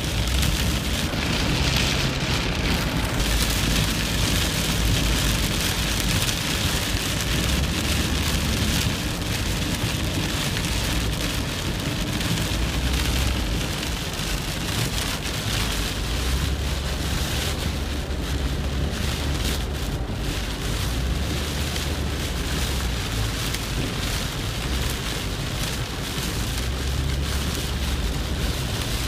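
Heavy rain beating on a moving car's windscreen and body, heard from inside the cabin as a steady hiss over a low rumble of the car on the wet road.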